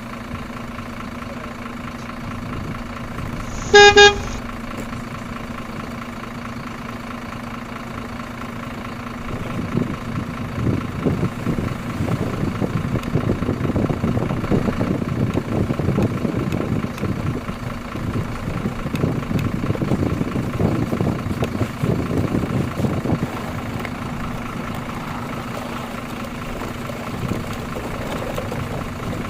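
A vehicle horn gives one short, loud toot about four seconds in, over a steady low hum. From about ten seconds in, a rough rumble like a running vehicle rises and continues until about twenty-three seconds in, then fades back to the hum.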